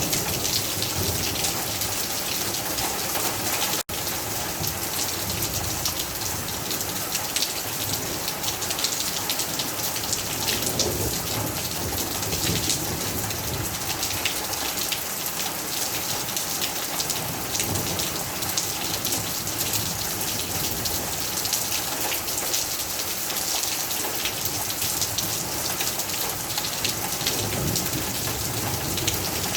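Heavy rain falling steadily, dense patter of drops hitting a surface close by; the sound cuts out for an instant about four seconds in.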